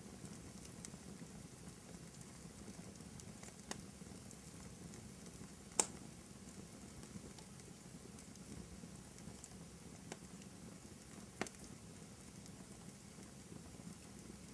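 Wood fire burning in a fireplace: a steady soft hiss and crackle with four sharp pops of burning wood, the loudest near the middle.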